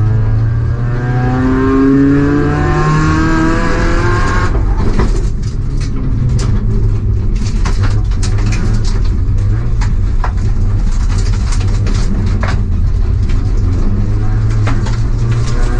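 Car engine revving, its pitch rising steadily for about four and a half seconds before dropping away, then running steadily with a low drone and scattered sharp clicks.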